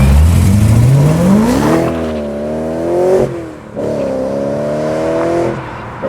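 A modified BMW M car accelerating hard, its engine note climbing steeply. The revs drop briefly at a gear change about three seconds in, then climb again before the driver lifts off near the end.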